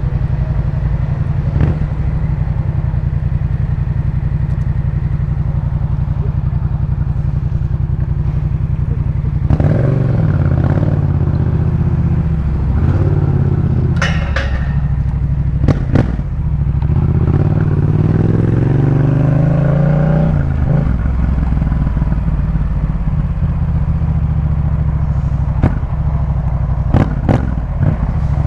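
Yamaha MT-07's 689 cc parallel-twin engine through a Jeskap K4 full exhaust system, running steadily at first. About ten seconds in it gets louder and is revved, its pitch rising and falling through the middle before it settles back to steady running. A few sharp clicks or knocks stand out along the way.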